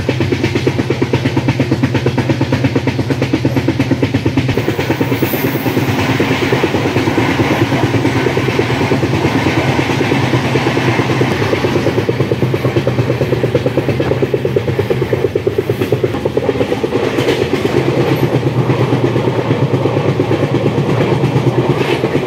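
Passenger train coach running along the line, heard from inside at the window: a steady rumble with a fast, even clatter of the wheels on the track.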